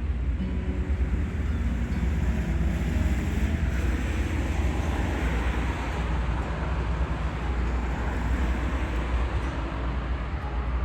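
A departing fishing boat's engine running as the boat passes, a steady low rumble under a rush of water that swells around the middle and eases toward the end.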